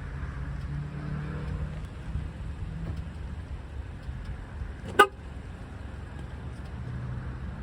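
Steady low vehicle rumble with a faint hum, broken by one sharp knock about five seconds in.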